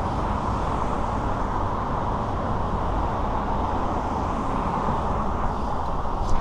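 Steady rush of wind and city traffic noise on a bike-mounted GoPro's microphone while cycling, with a brief click near the end.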